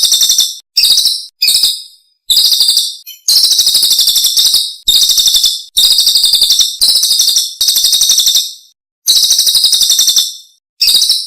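Songbird masteran (bird-song training) recording: a small songbird sings about ten loud, rapid, high-pitched trilled phrases. The phrases are split by abrupt dead-silent gaps, as in an edited, looped track.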